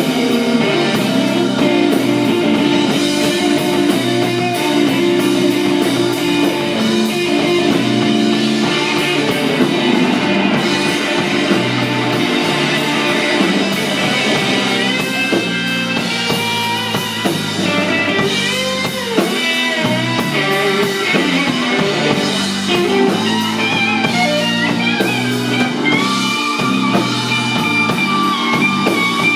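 Live blues-rock band with electric guitar, bass and drums playing a slow blues. About halfway in, the lead electric guitar takes over with bent, sustained high notes.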